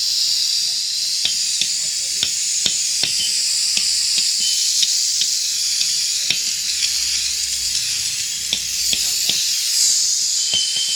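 Steady, loud hiss of a cleaning spray during alloy wheel and metal surface cleaning, with scattered sharp clicks.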